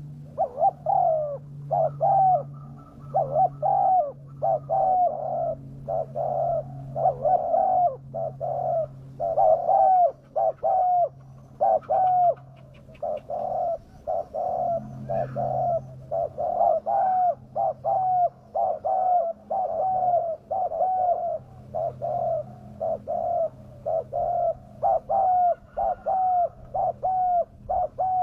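Spotted dove (tekukur) cooing in a fast, insistent run of short coos, about two a second, the kind of aggressive call used to lure wild doves down. A faint low hum lies underneath at times.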